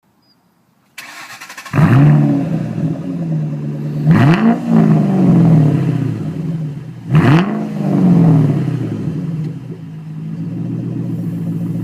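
2008 Shelby GT500's supercharged 5.4-litre V8 through Flowmaster Outlaw mufflers starting up: a brief crank about a second in, the engine catching loudly just before two seconds, then two quick throttle blips whose pitch shoots up and falls back, settling to idle.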